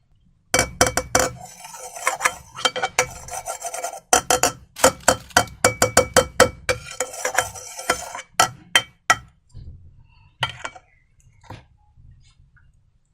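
A hard utensil stirring, scraping and clinking in a bowl, with quick sharp clicks and a faint ring from the container. The clicking stops about nine seconds in, leaving a few scattered taps.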